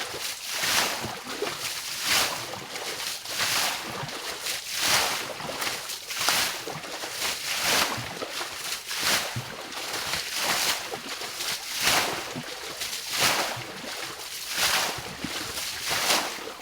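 Water being bailed out by hand, each scoop thrown out with a splashing swish, in a steady rhythm of about one throw every second and a half.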